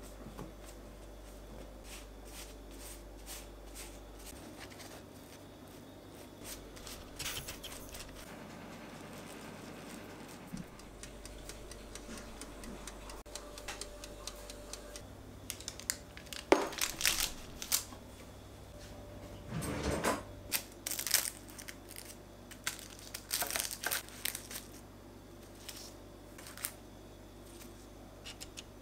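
Light handling sounds in a small room: scattered soft clicks and taps, with a few louder crinkling or scraping noises about halfway through and again near two thirds of the way in.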